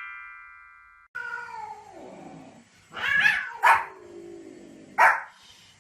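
A chime tone fading out, then a dog's long falling whine followed by three short, sharp barks from about three seconds in.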